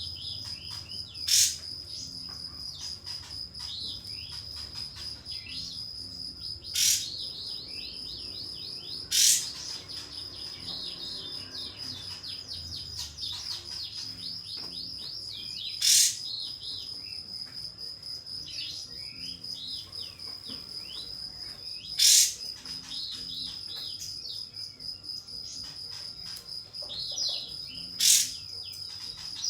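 Kapas tembak bird calling. It gives six loud, sharp 'shot' notes a few seconds apart, with softer twittering chirps between them. Under the calls runs a steady high cricket trill. The calls are the bird challenging a rival.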